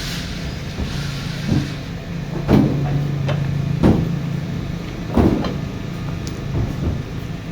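Pieces of marble being unloaded from a truck, knocking against each other and the truck bed about eight times at uneven intervals, over a steady low hum.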